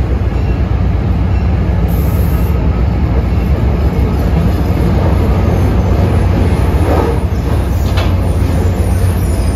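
MBTA commuter rail coaches rolling slowly past, a loud steady low rumble with a few sharp clicks about seven and eight seconds in, typical of wheels passing over rail joints.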